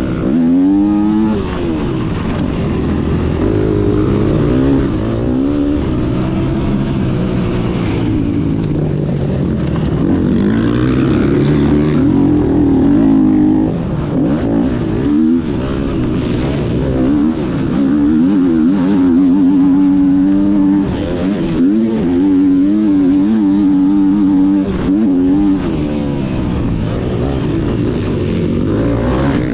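Motocross bike engine being ridden hard, its pitch climbing and dropping again and again as the rider works the throttle and gears.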